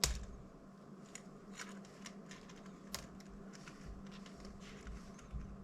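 Small clicks and ticks of hands working at the plastic parts of a DJI Mini 2 drone, tugging at a tight speed-controller cable connector that will not come loose. A sharp click right at the start is the loudest, and a steady low hum runs underneath.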